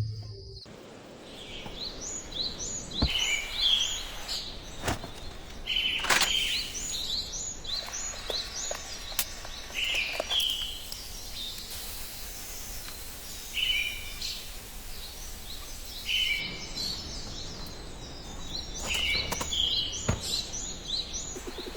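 Small birds chirping in quick runs of short repeated notes every second or two over a steady background hiss, with a few sharp taps now and then.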